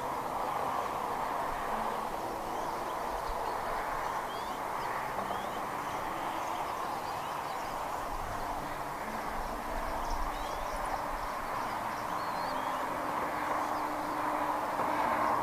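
Outdoor ambience: a steady rushing noise with faint, brief, high bird chirps scattered through it and a few low rumbles.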